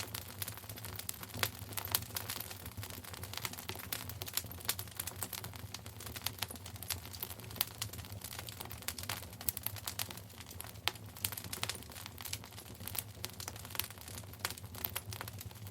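Wood fire burning in a fireplace, crackling with many irregular pops and snaps over a low steady rumble.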